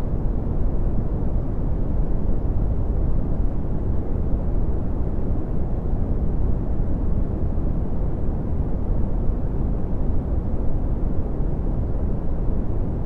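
Steady red (Brownian) noise: a constant deep rumbling hiss, strongest in the lows and fading toward the highs, with no change in level.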